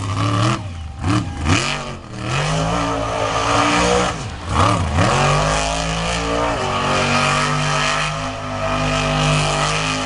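Monster truck engine revving hard, blipped up and down several times, then held at high revs.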